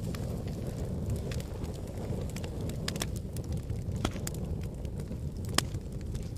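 Wood fire burning in a fireplace: a steady low rumble of flames with irregular sharp crackles and pops, the strongest about three, four and five and a half seconds in.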